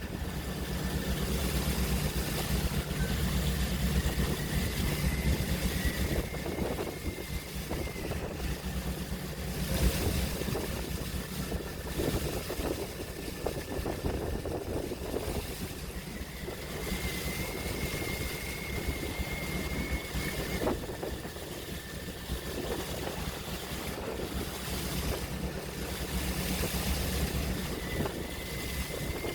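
Open-sea waves washing and swelling, with wind on the microphone, over a steady low hum like a boat's engine. A faint high whine comes and goes.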